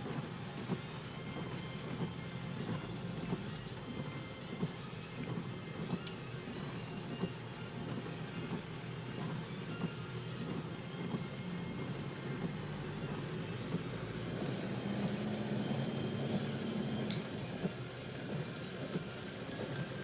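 Car driving, heard from inside the cabin: a steady engine hum under a continuous hiss of rain and water on the road.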